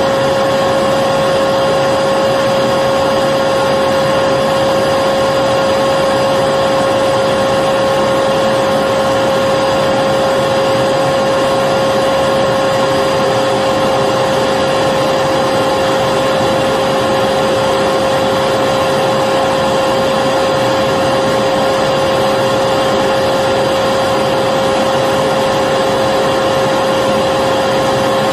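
Electric vacuum cleaner running continuously at a constant speed: a steady motor whine with the rush of air.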